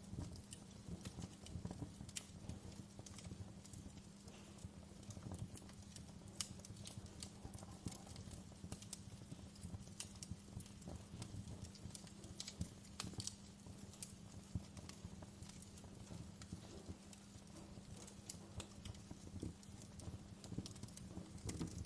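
Wood fire crackling in a fireplace: irregular small pops and snaps over a steady low hum.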